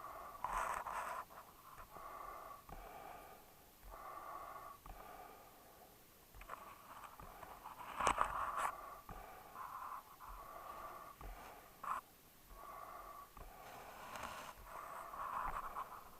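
A dog breathing noisily in short repeated puffs, about one a second, with a few sharp clicks mixed in, the loudest about eight seconds in.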